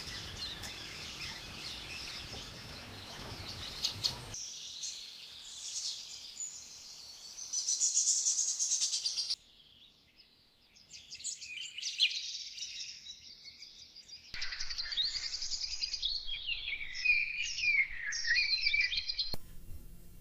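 Small birds chirping and singing, in short sections that change abruptly about every five seconds, each with a different mix of calls and background.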